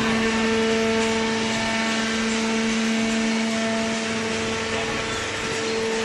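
Double cylinder vertical carton baler's hydraulic pump and electric motor running with a steady hum over a noisy mechanical rush.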